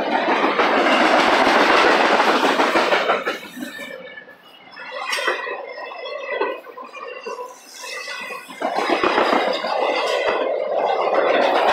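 Double-stack intermodal well cars rolling past on the rails: a loud, steady rumble of wheels on track with clicks from the wheels. It eases off for a few seconds in the middle and builds again near the end.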